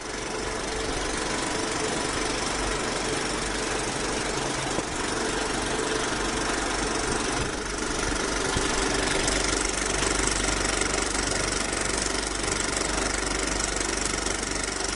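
Steady engine-like running noise with a fine, fast rattle.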